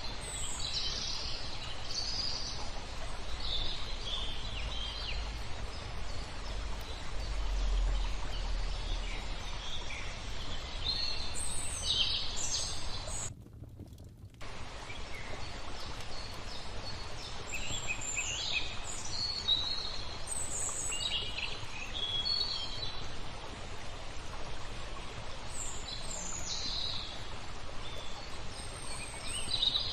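Birds chirping and calling in short phrases over a steady wash of flowing water, with a gap of about a second where the sound drops out about halfway through.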